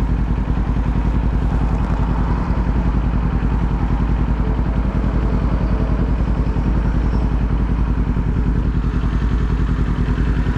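Kawasaki Z400's parallel-twin engine idling steadily, its pitch unchanged throughout.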